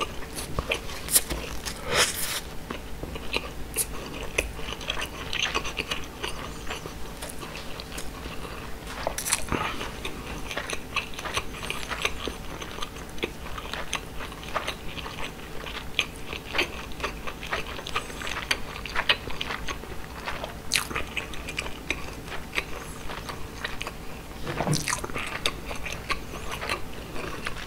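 A person chewing grilled mackerel with the mouth closed, picked up close to the microphone: a steady run of many short clicks and smacks from the mouth, with one louder mouth sound about three seconds before the end.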